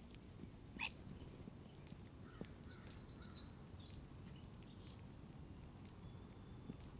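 Birds calling faintly: one short, sharp call about a second in, then a quick run of high chirps near the middle, over a low, steady background noise.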